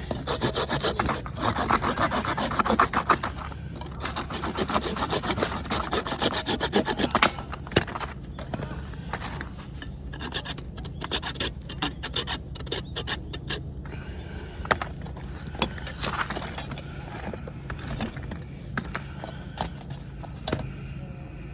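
Hand saw cutting wood: quick rasping strokes for the first seven seconds or so, then slower, separate strokes, fading to quieter scraping in the last part.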